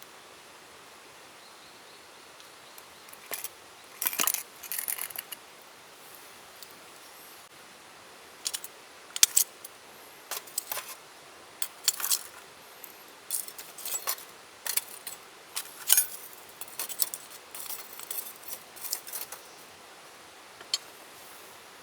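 Small metal objects clinking and rattling as they are handled, in irregular clusters of sharp clicks starting a few seconds in and running until near the end, over a steady faint background hiss.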